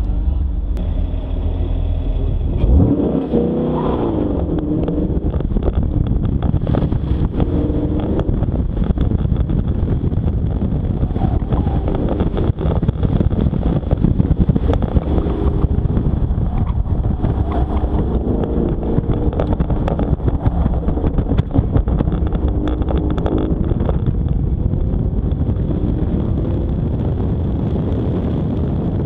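Car engine pulling hard under acceleration, its note climbing and falling repeatedly through an autocross run, with tyre and wind noise. A sharp change about three seconds in marks the car taking off from a slow roll.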